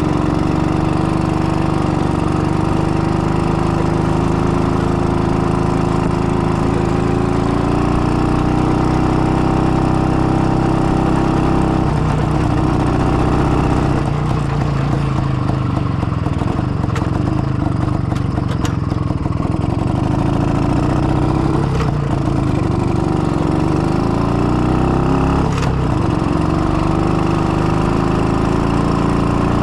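IZh-49 motorcycle's single-cylinder two-stroke engine running under way, its note climbing and falling several times as the throttle opens and closes. The engine is freshly rebuilt with an overbored 75 mm piston and is being run in.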